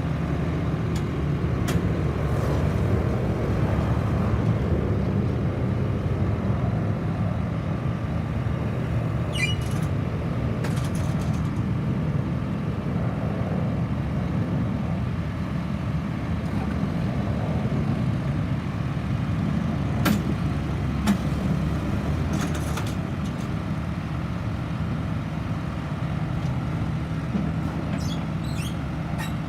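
Heavy vehicle engine running with a steady low rumble, with a few brief squeaks and clicks over it.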